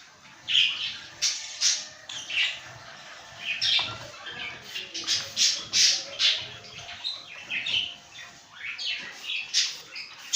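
Pet lovebirds giving a run of short, shrill squawks and chirps, a dozen or more in quick succession.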